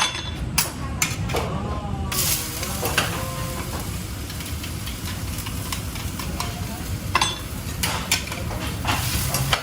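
Food sizzling and frying in a pan while it is stirred, with a utensil knocking against the pan now and then. The sizzle grows fuller about two seconds in.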